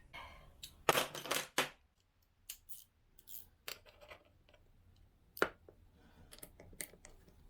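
Small metal clicks and clinks of hand tools and small engine parts being handled during engine assembly. There is a quick cluster of clicks about a second in and one sharper click about halfway through.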